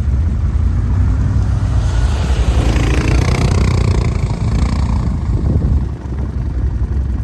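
A quad bike (ATV) engine runs with a heavy low rumble. A louder rushing noise swells for a few seconds in the middle and then dies back.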